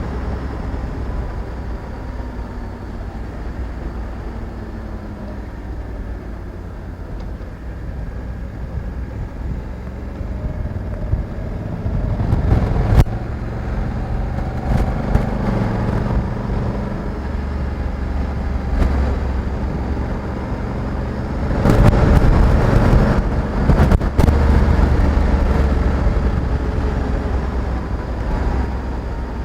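Honda Africa Twin 1100 DCT's parallel-twin engine running under way, its pitch rising and falling with the throttle. It grows louder about twelve seconds in and again around twenty-two seconds.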